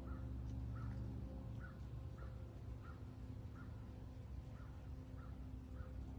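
A bird giving short calls over and over, about once every two-thirds of a second, over a steady low hum.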